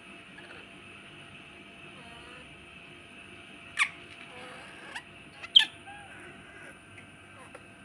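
Baby monkey giving two short, sharp, high squeaks about two seconds apart, over a steady background hiss.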